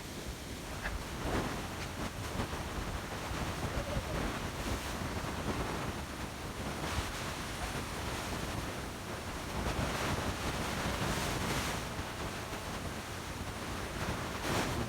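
Wind blowing on the microphone: a steady rushing with low rumble that swells and eases in gusts every few seconds.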